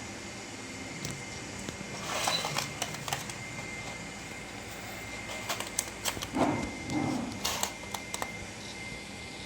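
Budgerigars in a cage making scattered clicks and short scratchy chirps in two bursts, one about two seconds in and another from about five and a half to eight seconds in, over a faint steady high tone.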